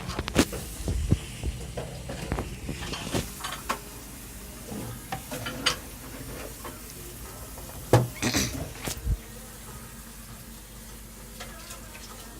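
Kitchen cooking noises: scattered clinks and knocks of utensils against dishes and pans, the loudest about eight seconds in, over a steady low background.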